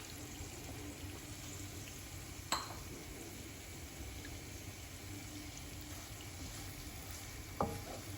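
Ginger, green chillies and garlic frying in hot oil and ghee, a steady sizzle, with two sharp clicks, one about two and a half seconds in and one near the end.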